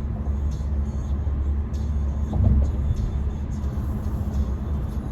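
Steady low rumble of road and engine noise inside the cabin of a Renault Samsung SM3 sedan moving at highway speed, with a brief louder swell about two and a half seconds in.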